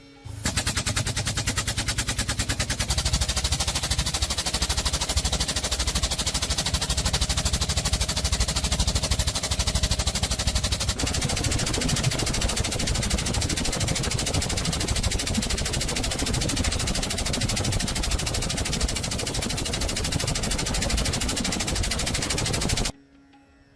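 A metalworking tool working on steel gives a fast, continuous, machine-gun-like rattle of tiny impacts. It starts abruptly about half a second in, holds steady for over twenty seconds and cuts off suddenly near the end.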